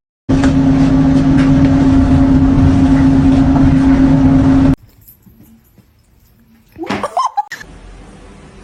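A loud, steady motor hum for about four seconds that cuts off abruptly. Then it is quieter, with a short gliding call about seven seconds in.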